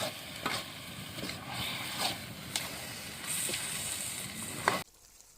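Tomatoes sautéing in a pan of chicken masala, with a steady sizzle and scattered sharp knocks and scrapes from a spatula against the pan. The sound cuts off suddenly near the end.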